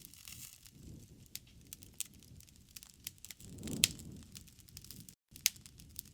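Wood fire crackling in a fireplace: scattered sharp snaps and pops over a soft low rush of burning logs, with one louder pop and a brief swell about two-thirds of the way through. The sound cuts out completely for a split second near the end.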